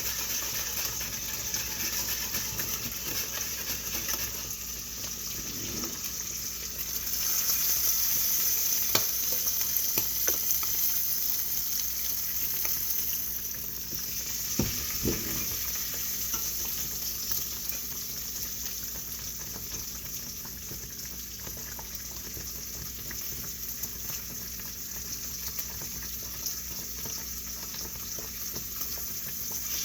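Food frying and sizzling in a pan as a steady hiss, with a few short clicks or knocks from about nine to fifteen seconds in.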